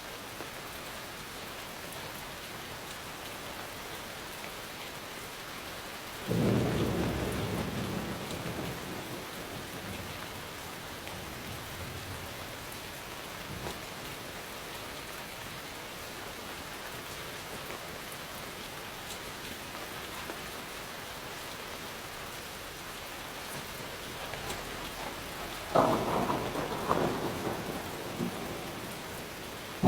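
Steady rain falling, with a clap of thunder about six seconds in that rumbles away over a few seconds, and a sharper peal with several cracks near the end.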